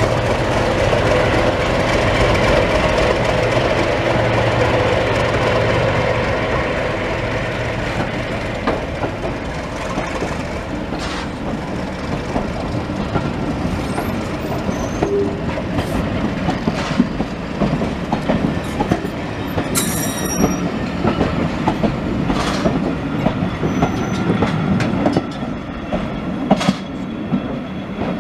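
Train running on jointed track, its wheels clicking and knocking over the rail joints, with an engine hum that fades over the first several seconds and a brief high wheel squeal about twenty seconds in.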